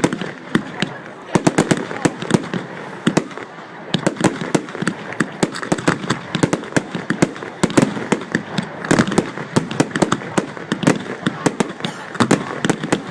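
Fireworks going off: a rapid, irregular series of sharp bangs and crackles, several a second, getting denser about four seconds in.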